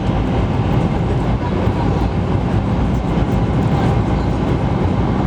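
Steady, loud running noise inside the passenger car of a Taiwan High Speed Rail train (700T) travelling at speed through a tunnel: a dense, even rumble, heaviest in the low end.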